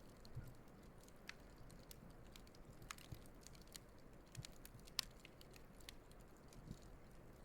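Wood campfire burning, faint, with scattered crackles and small pops, the sharpest pop about five seconds in.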